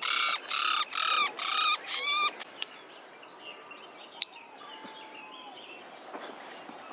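A bird giving loud, harsh squawks very close by, about five in the first two seconds, the last breaking into a rapid stutter. Then faint chirping and a single sharp click.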